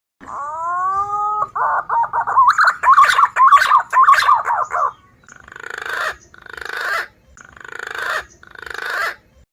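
Recorded wild green pigeon (punai) calls played as a bird lure. First comes a rising whistle, then about three seconds of fast warbling whistled notes, then four raspy rising calls about a second apart.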